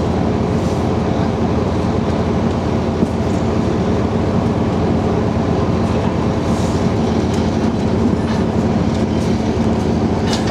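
Engine of a Type 94 waterfront mine-laying vehicle running steadily, a loud, even drone that holds one pitch throughout.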